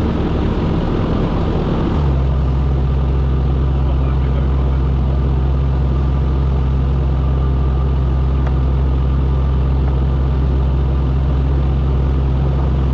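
Small fishing boat's engine running steadily with a loud low hum; its pitch drops slightly about two seconds in and then holds steady.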